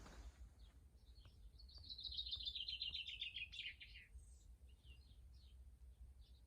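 A songbird singing: a fast trill of repeated notes that slides down in pitch, starting about a second and a half in, followed by scattered short chirps.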